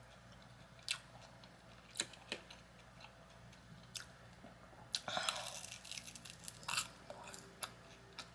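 Close-up eating sounds: a person chewing, with scattered wet mouth clicks and smacks, and a short crunchier stretch about five seconds in.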